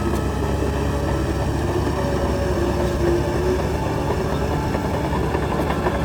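Heavy diesel engine of earthmoving machinery running steadily under load, with a continuous low rumble and a faint wavering whine over it.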